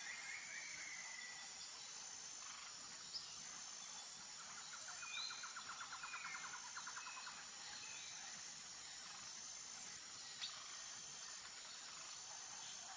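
Faint outdoor nature ambience: a steady high insect hiss with scattered short bird chirps and rapid trills, one at the start and another around the middle.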